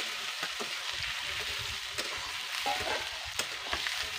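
Chicken pieces sizzling in hot oil in a metal wok over a wood fire, with a spoon clicking and scraping against the pan now and then as they are stirred.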